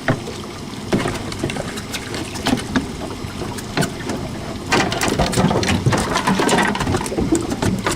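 Water splashing and sloshing around a small boat, with scattered irregular clicks and knocks that grow busier about five seconds in.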